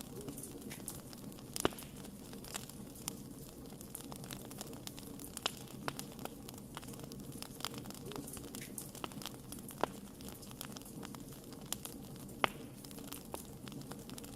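Wood fire burning steadily with a low rushing background, crackling with frequent small irregular pops and a couple of sharper snaps.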